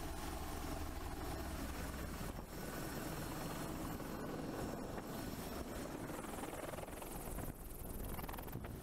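Helicopter noise: a steady drone of rotor and engine.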